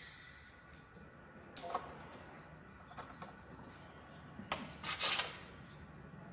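A few sharp metallic clicks and clinks of small valve-train parts (valve locks, spring cups and springs) being handled and fitted on a single-cylinder diesel engine's cylinder head, the loudest cluster about five seconds in.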